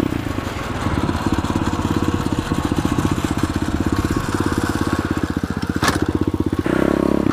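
SSR 125 pit bike's single-cylinder four-stroke engine running while riding, its firing pulses steady and even. A single sharp tick comes about six seconds in, and the engine note evens out near the end.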